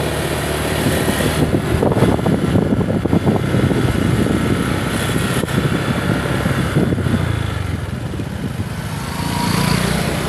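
A small engine running steadily under a thick, uneven rushing noise.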